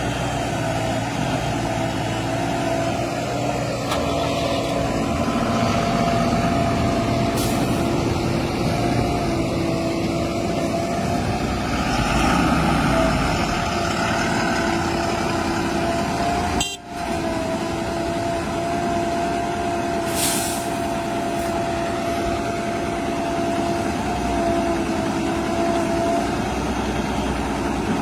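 Heavy diesel machinery, JCB 3DX backhoe loaders working beside a Tata tipper truck, running steadily with a steady high whine over the engine noise. The sound drops out briefly about 17 seconds in.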